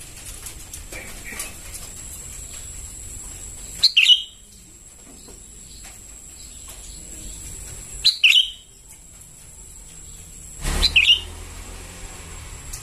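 Young sooty-headed bulbul calling: three short, sharp chirps about four seconds apart, each a quick double note.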